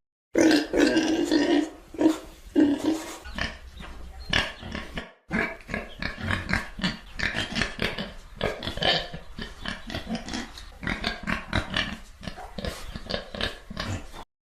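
An animal calling: a longer call in the first couple of seconds, then a rapid run of short calls that stops abruptly near the end.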